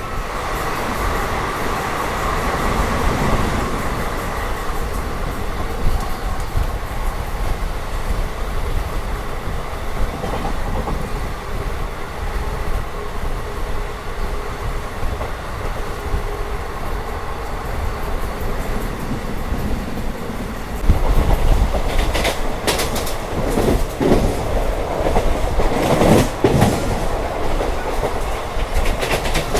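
Train running on the rails, a steady rumble with wheel clickety-clack. About two-thirds of the way in it gets louder, with a quick run of sharp clicks and rattles for several seconds.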